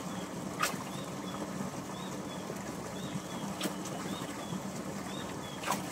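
Birds calling outdoors: a scattered series of short, faint, high chirps, with three brief sharp high calls about a second in, in the middle and near the end, over a steady background hiss.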